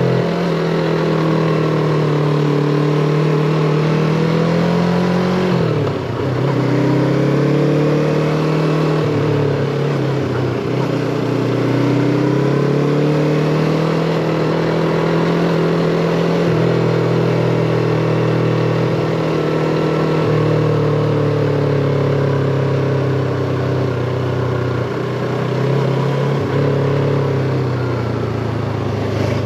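Yamaha MT-25's 250 cc parallel-twin engine running under changing throttle, its pitch rising and falling as it climbs, with sharp drops in pitch about six seconds in and again around ten seconds.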